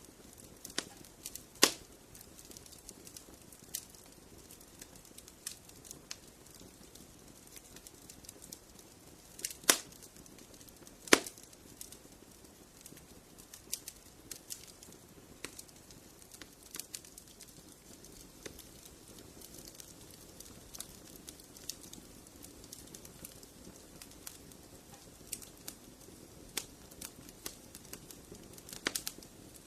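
Wood fire crackling in a fireplace: scattered small pops and snaps over a faint low hiss, with a few sharper cracks about a second and a half in and twice around ten seconds in.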